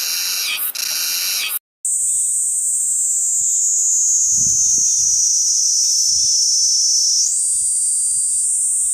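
Cicadas singing: first a loud, pulsing, high-pitched song, then, after a brief cut, another cicada species' continuous high whine that slowly sinks in pitch and snaps back up near the end.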